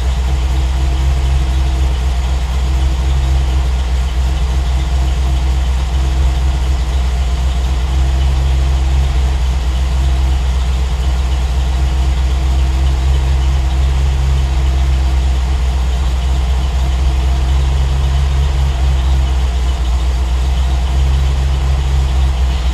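Triumph TR8's Rover V8 idling steadily on a cold start, running its warm-up idle while the Megasquirt fuelling is being leaned slightly.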